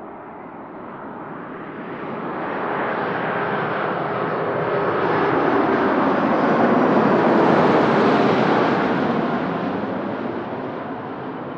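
Jet airliner passing close by. The engine noise swells to a peak about two-thirds of the way through, then fades away.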